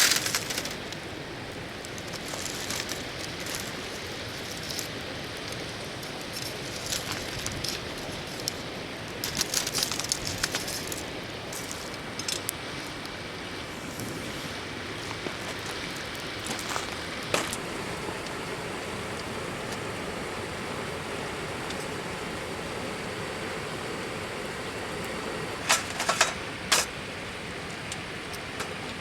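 Steady rushing of a flowing river, with sharp clicks and crackles near the start, about ten seconds in and again near the end.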